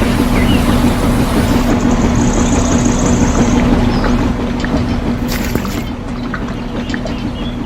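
A small motor running steadily with a constant hum over a rushing noise. The hum fades out between about four and six seconds in.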